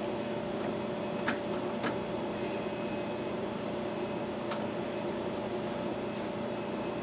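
A steady electric hum with a constant droning tone, like a fan or air-conditioning unit running. A few light clicks sound over it, about a second in, shortly after, and past the middle, from small parts or a screwdriver being handled.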